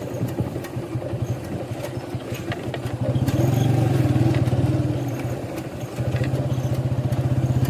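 Motorcycle engine running on the move, with a fast, even pulse. It picks up about three seconds in, eases off, then picks up again near the end.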